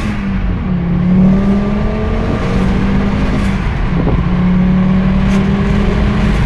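Turbocharged 2.3-litre five-cylinder Volvo V70R engine running steadily while driving. Its pitch dips briefly about a second in and again near the middle.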